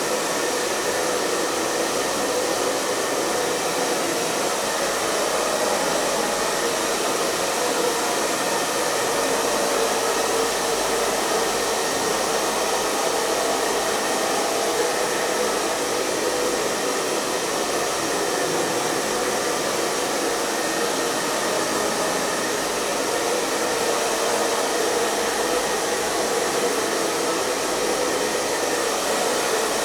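Hair dryer running steadily, a constant airy whoosh of blown air and motor with no change in speed.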